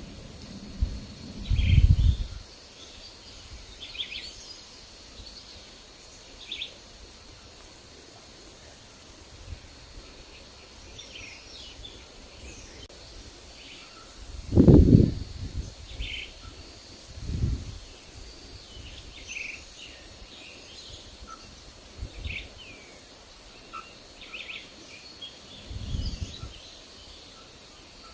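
Forest birds giving scattered short chirps and calls throughout, with wind gusting on the microphone several times in low rumbles, the strongest about halfway through.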